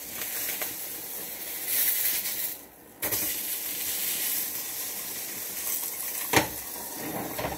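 Ground-chicken burgers sizzling in a frying pan hot enough to char them. The sizzle briefly drops out just before three seconds in, and there are two sharp knocks of the spatula on the pan, about six and a half seconds in and again at the very end.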